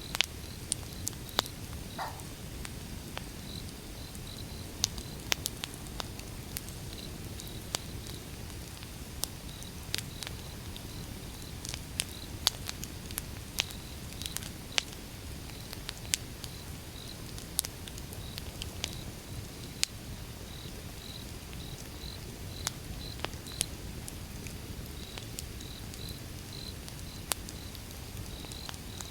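Wood fire burning: a low rumble of flames with irregular sharp pops and crackles from the burning logs, one or two a second, over a steady high chirping in the background.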